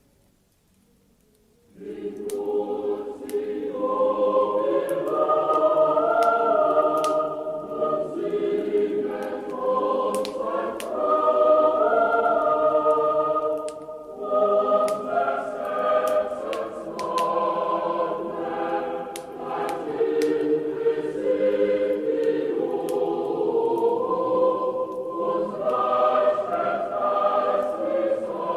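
A choir singing a slow Christmas song in sustained chords, starting about two seconds in after a brief silence. Faint crackles like a wood fire run underneath.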